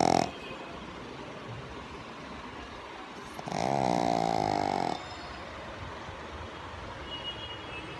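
Pug snoring in deep sleep: the tail of one snore right at the start, then one long, loud snore of about a second and a half beginning about three and a half seconds in.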